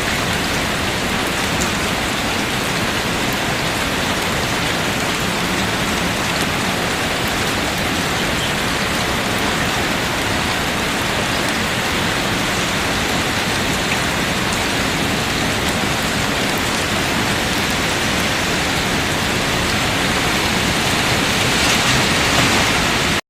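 Steady rain falling, an even hiss with scattered faint drop ticks, cut off suddenly at the end.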